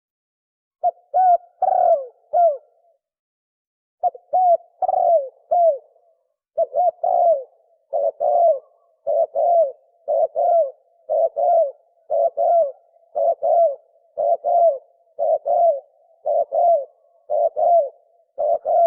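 Spotted dove cooing in the deep 'sấm' voice, its phrases repeating about once a second after a short pause near the start.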